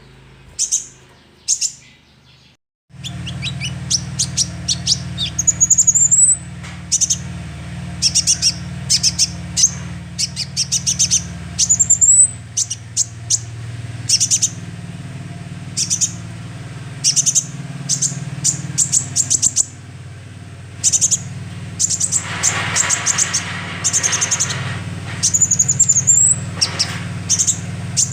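Young sunbird (konin) giving quick series of short, high chirps and brief upward-sliding whistles, over a steady low hum that comes in about three seconds in.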